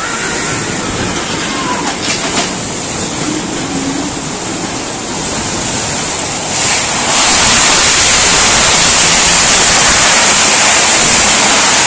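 Heavy rainstorm with strong wind: a loud, steady rush of rain and gusts that swells sharply about seven seconds in and holds at that level.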